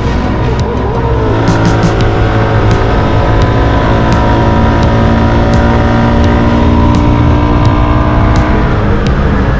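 CFMoto 250SR single-cylinder motorcycle engine running under way at a fairly steady pitch that drifts gently up and down, with a few faint ticks now and then.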